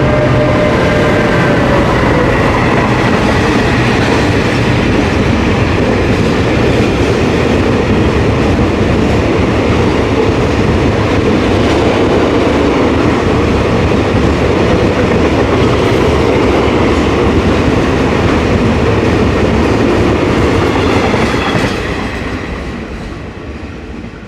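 Freight train of gas tank wagons rolling past at speed, with a loud steady rumble and wheels clattering over the rail joints. The locomotive's engine tone fades in the first couple of seconds. The noise drops away about 21 seconds in as the last wagons pass.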